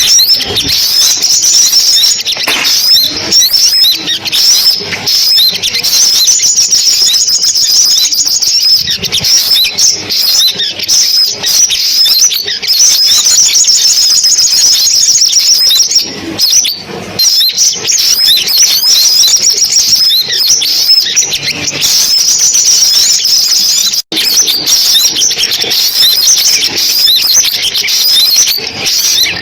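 Sunbirds calling: a dense, unbroken stream of rapid high-pitched chirps and trills, a recorded lure call of the kind played through a loudspeaker to draw sunbirds to a trap. It breaks off for an instant near the end, then carries on.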